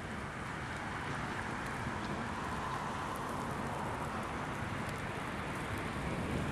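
Steady rain during a thunderstorm, an even rushing hiss with wind on the microphone and a few faint scattered ticks.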